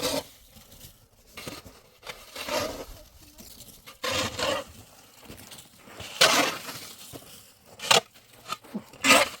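A shovel scraping and digging in irregular strokes, with a few sharp knocks of the blade near the end.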